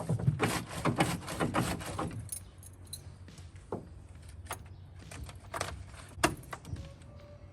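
A bunch of keys jangling, thickest in the first two seconds, followed by a few separate clicks and knocks.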